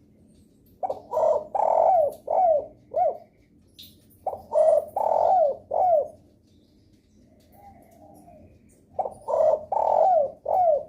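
Spotted dove (derkuku) cooing: three phrases, each a short coo, a longer held coo and two quick falling notes, with a pause of a few seconds between phrases.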